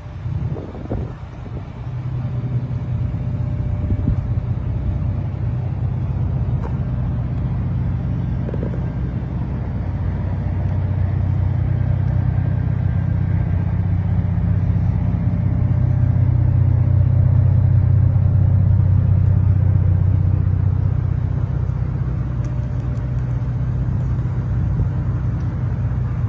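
2020 Ford F-150 pickup's engine idling steadily at an unchanging low pitch, growing a little louder in the middle and easing back near the end.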